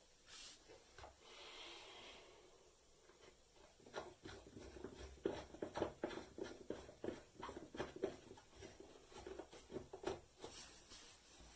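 Faint handling noises: some rubbing at first, then from about four seconds in a run of light knocks and clicks, a few a second, as objects are moved about.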